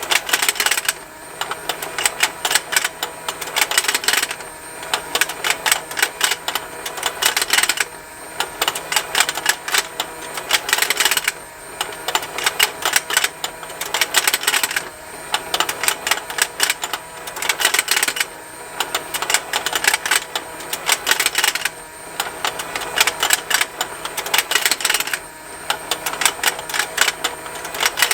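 Plastic fishing-game toy running: its small motor turns the pond with a fast, continuous plastic ticking, mixed with snapping plastic, over a faint steady hum. The clicking swells and eases about every three and a half seconds.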